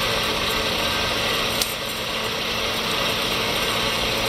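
A 2 HP Comet vertical milling machine running with its quill power feed engaged at the medium rate: a steady whir of the spindle drive and feed gearing, with one sharp click about one and a half seconds in.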